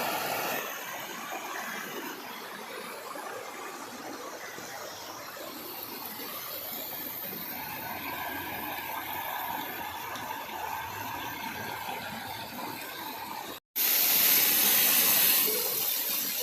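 Waterfall rushing steadily, an even hiss of falling water. The sound cuts out for an instant about three-quarters of the way through and comes back louder.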